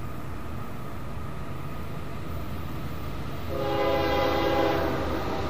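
Diesel locomotive horn sounding one steady chord for about two seconds, starting a little past halfway, over the low steady rumble of the train's diesel engines.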